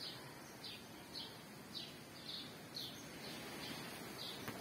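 A small bird chirping faintly, one short high note repeated about every half second, over steady outdoor background noise.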